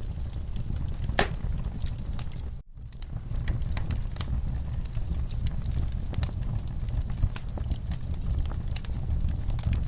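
Wood fire burning in a fireplace: a steady low rumble of flames with irregular crackles and pops, one sharp pop about a second in. The sound drops out for a moment just before three seconds, then the crackling resumes.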